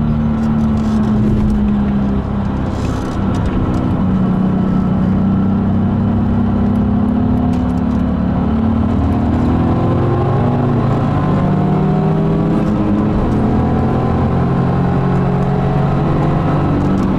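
BMW Z4 Clubsport's engine heard from inside the cabin under way on track, with road and tyre noise. The engine note sags a little over the first few seconds, then climbs steadily through the second half as the car pulls hard down a straight.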